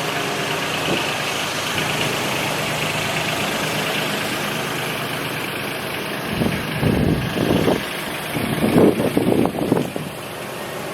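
2014 Ford F450 stakebed truck's engine idling steadily. From a little past halfway, gusts of wind buffet the microphone and cover the idle.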